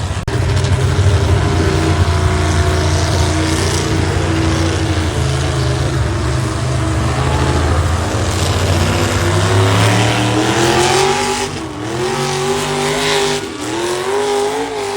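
Loud, heavy engine of a tractor-pull competitor's vehicle, running with a deep steady drone for about ten seconds, then revving, with the pitch climbing and wavering, dipping once and climbing again near the end.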